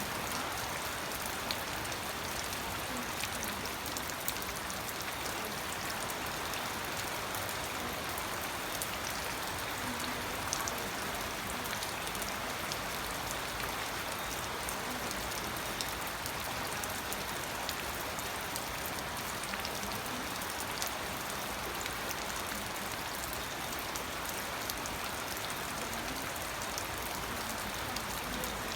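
Steady rainfall, an even hiss with many small drops ticking on a surface.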